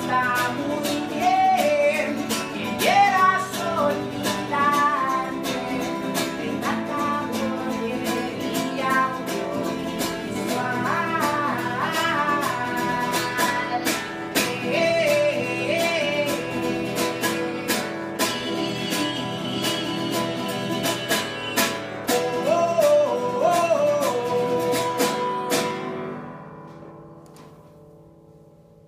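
Live band music led by strummed guitars with a gliding melody line on top, ending in a last chord that rings out and fades over the final few seconds.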